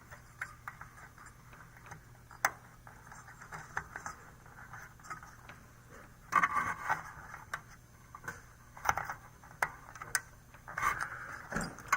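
Small irregular clicks and scrapes of a 2032 coin-cell battery and fingers working against a motherboard's battery holder as it is pushed in and won't seat. There is a denser spell of scraping about six seconds in and another near the end.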